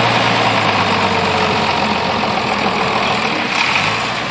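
International 856 tractor engine running steadily with a dense mechanical clatter. The engine was stuck and has only just been got running again. A low hum fades out about a second and a half in.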